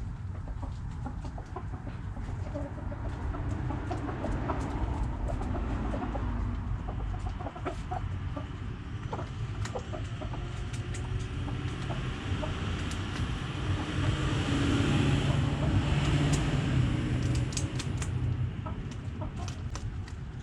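Backyard hens clucking over a steady low rumble, with scattered short clicks; the calls grow louder and busier about three quarters of the way through.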